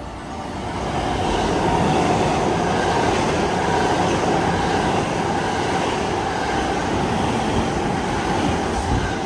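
Hankyu electric train passing close by, a steady rumble of wheels on rails that swells over the first second and a half, stays loud, then cuts off abruptly at the very end.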